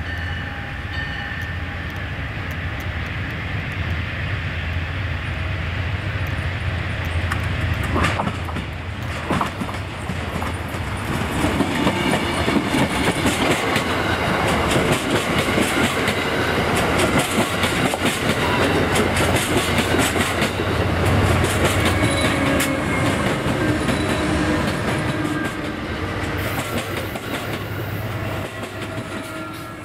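Diesel-hauled train passing: a steady engine drone, then from about ten seconds in a fast run of wheels clacking over rail joints, with some faint wheel whine. The clacking is loudest through the middle and eases off near the end.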